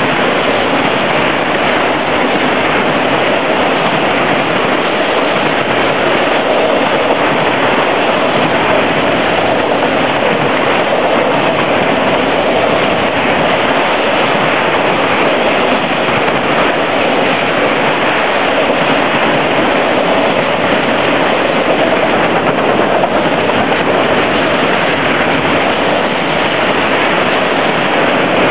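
Freight train of autorack cars passing close by: a loud, steady rolling noise of steel wheels on the rails.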